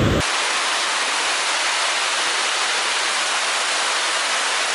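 Heavy monsoon rain pouring down, a steady, even hiss that starts abruptly just after the opening.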